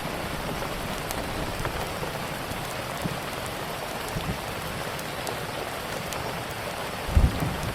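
Steady rain, with faint sharp clicks scattered through it and a low rumble of thunder swelling about seven seconds in.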